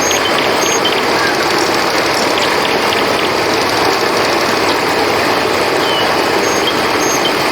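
Steady, loud rush of a flowing river. Short high chirps from crickets recur every second or so above it.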